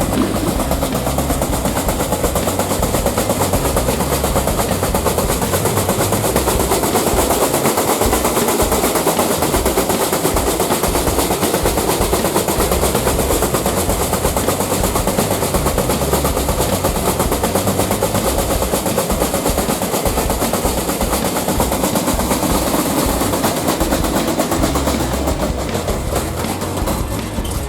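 Washing machine on its spin cycle with a heavy piece of metal loose in the drum, banging and rattling in a loud, fast, continuous clatter as the drum spins at high speed.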